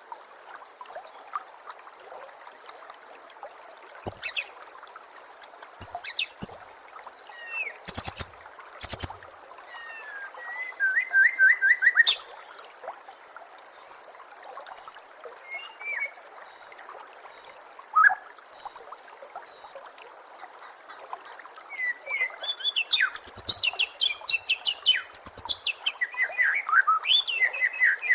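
White-rumped shama (murai batu) singing varied phrases over a steady trickle of water. The phrases include a short trill, a series of sharp repeated notes in the middle, and a fast run of rising and falling whistles near the end.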